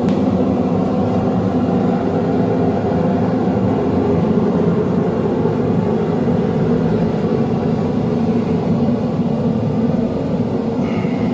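A forge running with a loud, steady roar that does not let up.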